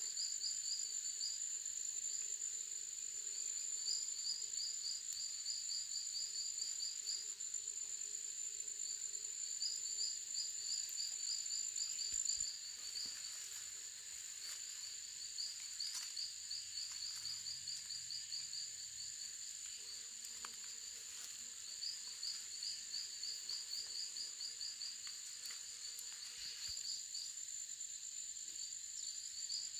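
Insects chirping: a steady high whine that drops out about halfway through and comes back near the end, over a rapid pulsing chirp that comes in spells of a few seconds.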